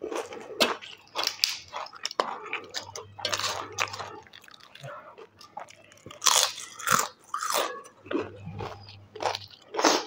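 A person biting and chewing crisp food close to the microphone, with irregular, loud crunches every fraction of a second.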